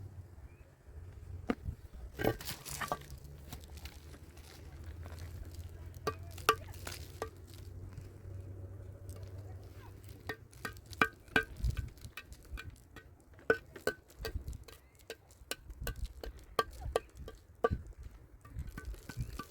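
Irregular light clinks and knocks of hard objects, coming thicker in the second half, over a low steady rumble in the first half.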